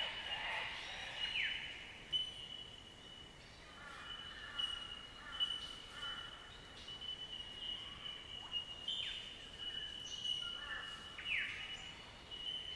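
Bushland ambience: birds calling over a steady high-pitched drone, with a sharp downward-sweeping call about a second and a half in and another near the end.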